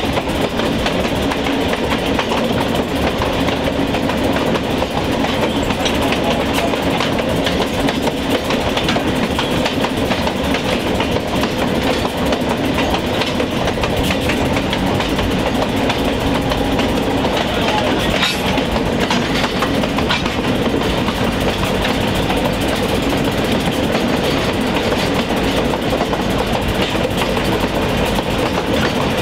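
Diesel locomotive train running, with a steady engine sound under repeated clicks of steel wheels on the rails.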